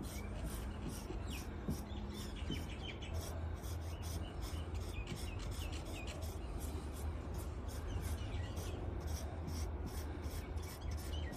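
Quick back-and-forth rubbing strokes, about two or three a second, on a lacquered solid-wood tabletop as dark brown scratch-pen colour is worked into a white mark and feathered out.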